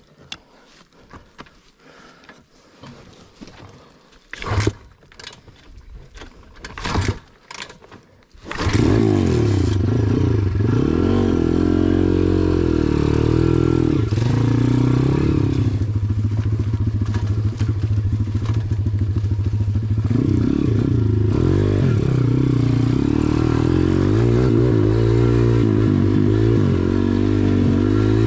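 About eight seconds of low handling noise with a few knocks, then an SSR dirt bike's engine comes in abruptly and runs loud, its pitch rising and falling as it is revved and ridden.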